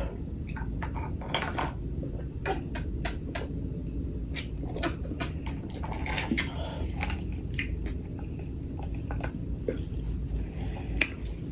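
Scattered small clicks and knocks of eating at close range: tableware and food containers being handled along with mouth sounds, over a steady low hum.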